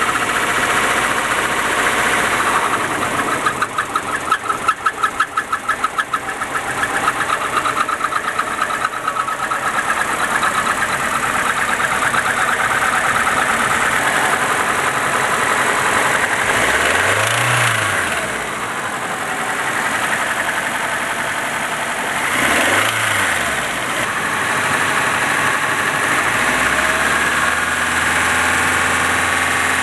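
Nissan 200SX engine idling with a knock, heard as a rapid rhythmic rattle strongest a few seconds in. It is revved briefly twice, about halfway through and again some five seconds later. The owner suspects the variable valve timing, the camshafts or the cam oil spray bar as the cause of the knock.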